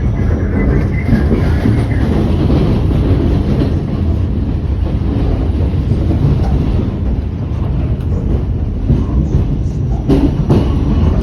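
New York City Q subway train running on the rails, a loud steady rumble with a few sharper clacks from the wheels near the end.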